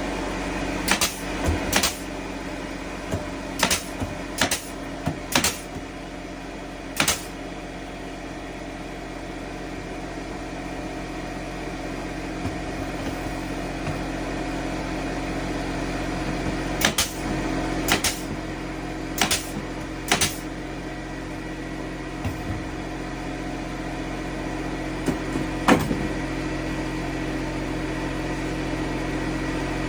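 A steady mechanical hum with about a dozen sharp knocks over it, irregularly spaced, in clusters in the first seven seconds and again around two-thirds of the way in.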